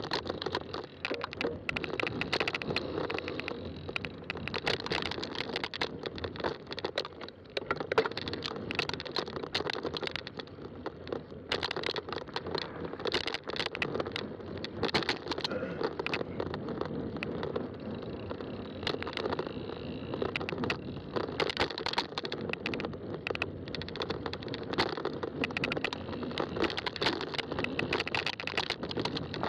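Fat-tire bike being ridden on a trail: steady tyre and drivetrain noise with frequent rattling clicks.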